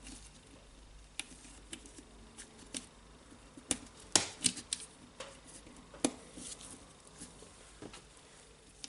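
Scattered small clicks and taps of parts being handled and pushed into place while new carbon brushes are fitted into the brush holders of an angle grinder, with the clearest clicks around the middle.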